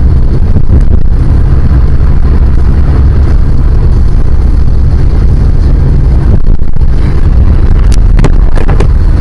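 Loud, steady rumble of a moving car, heard as road and wind noise on a dashcam microphone, with a few sharp clicks near the end.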